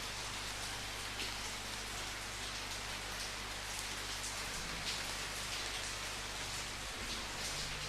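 Steady rain falling, with frequent brief, sharper drop hits standing out above the even wash, over a faint low steady hum.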